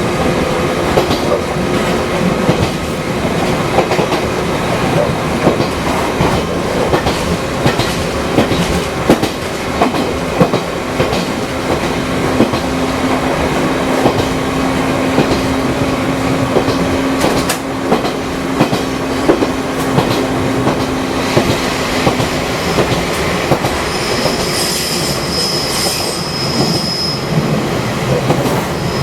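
Fukui Railway 200-series electric railcar running, its wheels clicking steadily over rail joints. A steady low tone sounds through the middle, and a high wheel squeal rings out for a few seconds near the end.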